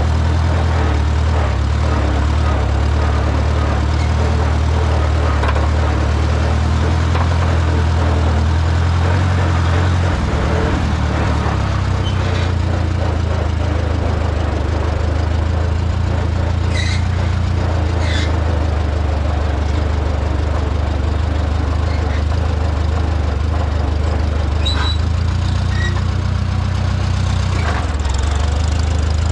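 Farmall A tractor engine running steadily. Its note shifts about ten seconds in and again near the end as engine speed changes. A few short squeaks or clinks sound over it in the second half.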